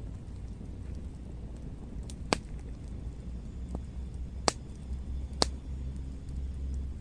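Three sharp cracks spaced a second or two apart over a steady low rumble.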